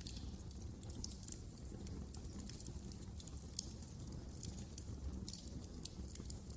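Wood fire crackling in a fireplace: irregular sharp snaps and pops over a low steady rumble of the burning.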